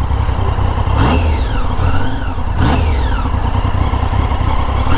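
Motorcycle engine revved in quick blips, about three, each rising sharply in pitch and falling back, over a steady low rumble.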